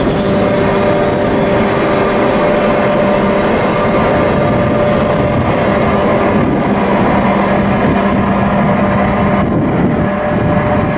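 Ship's diesel engine running steadily: a loud, unbroken mechanical din with a steady low hum.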